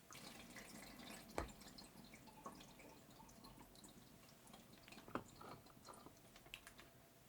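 Faint, scattered small clicks and wet ticks of cake making, close to the microphone, with two sharper taps about a second and a half and five seconds in.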